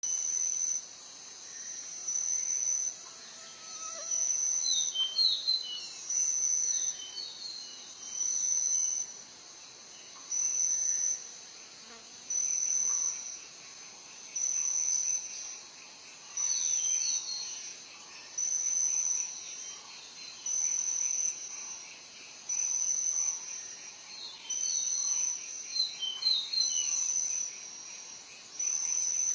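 A calling insect repeating a high, shrill trill about every two seconds over a steady higher hiss of other insects, with scattered short bird chirps in a few places.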